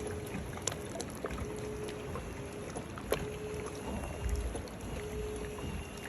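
Tour boat in glacier ice: a steady low rumble of the boat and water, with scattered sharp clicks and knocks and a faint hum that comes and goes every second or two.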